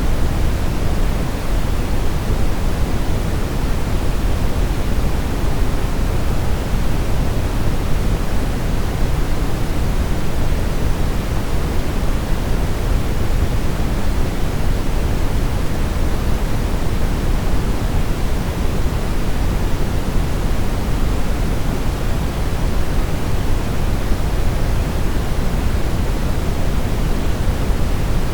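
Steady brown noise: an even, deep rushing hiss, strongest in the low end, with no changes.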